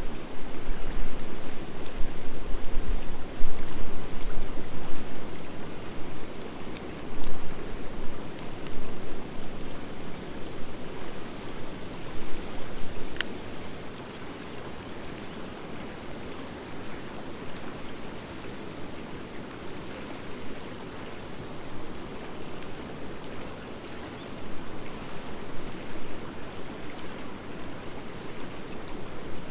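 Wood fire of driftwood and dry hardwood burning in a fire pit: a steady rushing noise with scattered small crackles, one sharper pop about 13 seconds in. A low rumble and uneven loudness mark the first few seconds.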